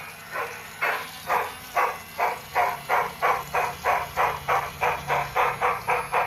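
Steam exhaust chuffs from a Union Pacific Big Boy model locomotive's sound effects, an even rhythm that quickens from about two to about four chuffs a second as the locomotive picks up speed.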